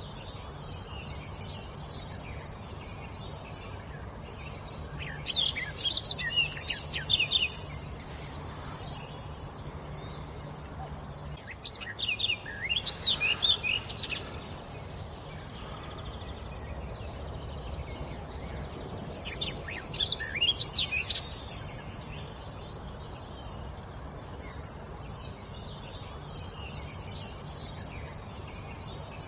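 A songbird singing three separate short phrases of quick, high notes that slide sharply up and down, with several seconds of pause between phrases, over a steady low hum.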